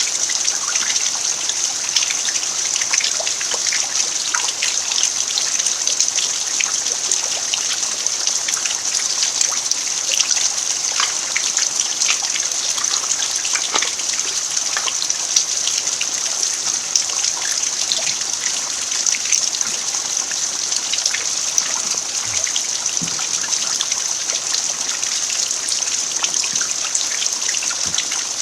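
Steady rain falling on a packed-earth yard: an even hiss of rainfall with a dense patter of individual drops.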